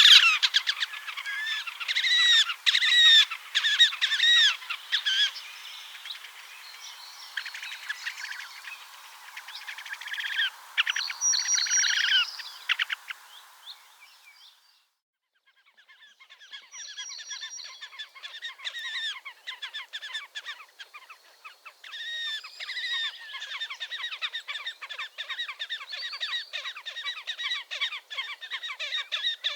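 Slavonian (horned) grebes calling: runs of rapid, repeated arched notes and fast trills. The calling stops for a second or two about halfway through, then resumes as a long fast trill.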